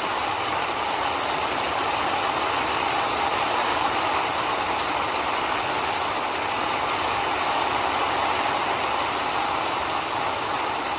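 Heavy rain falling steadily, an even unbroken rush of water.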